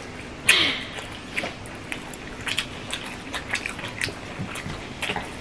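Close-up eating by hand: scattered soft chewing and mouth clicks as rice and fish are eaten, with fingers working rice on steel plates. One louder breathy sound comes about half a second in.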